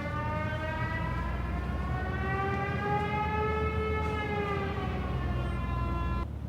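Aircraft engine drone with a low rumble underneath, its pitch rising slowly and then falling back, cutting off abruptly near the end.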